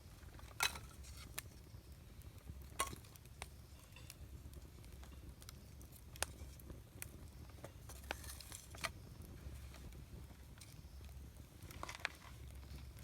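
Wood campfire crackling, with sharp pops scattered irregularly every second or two, the loudest about half a second in, over a steady low rumble.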